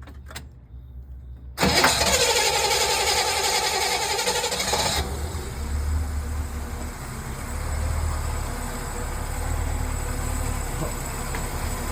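A boat's petrol engine with a distributor starts up about a second and a half in, runs fast and busy for a few seconds, then settles into a steady idle. Its ignition timing is at about 2 degrees, which the owner reckons is too retarded and the cause of spark knock and overheating.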